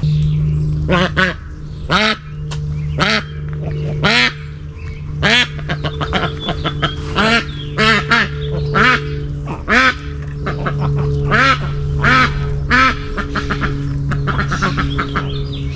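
Duck quacking repeatedly, about once a second, over a steady low background tone.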